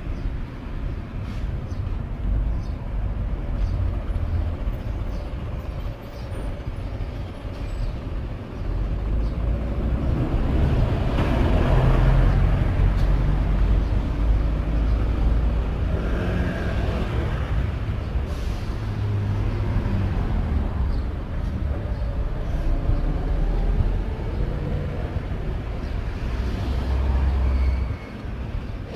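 Steady low rumble of a moving vehicle, growing louder from about nine seconds in and easing off after a few seconds.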